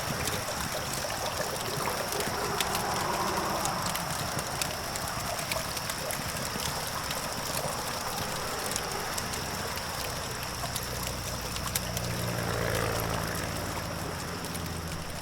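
Campfire crackling with frequent sharp pops over a steady hiss, with distant traffic swelling twice as vehicles pass, the second pass louder with a low rumble about three-quarters of the way through. A steady high-pitched whine runs underneath.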